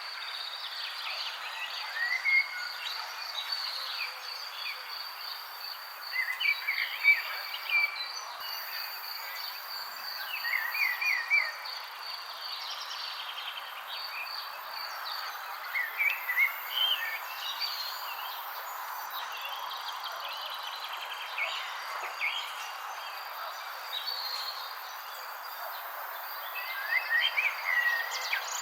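Songbirds chirping in short clusters every few seconds over a steady, high-pitched insect trill and a constant background hiss.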